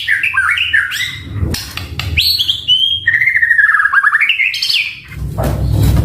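White-rumped shama (murai batu) singing loud, varied whistled phrases with sweeping up-and-down glides, one phrase coming twice about three seconds apart. A low rumble comes in near the end.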